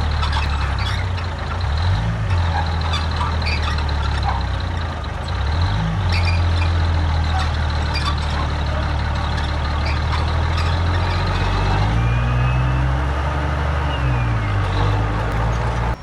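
Heavy diesel earthmoving machine engine running under load, its pitch dipping and picking up again several times, with metallic rattling and clanking over it.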